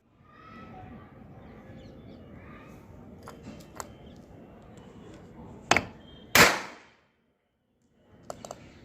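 Two sharp bangs about two-thirds of a second apart, the second louder and fading out over about half a second, over a faint background; a few light clicks follow near the end.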